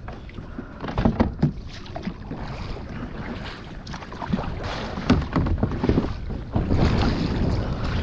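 Kayak being paddled: paddle strokes splashing in the water in irregular swells, with a few sharp knocks about a second in and wind buffeting the microphone.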